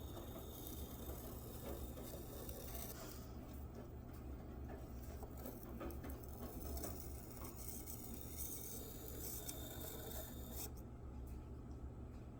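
Steel kitchen knife blade being stroked across the wet medium side of an Arkansas whetstone: faint scraping passes that come and go, over a steady low hum.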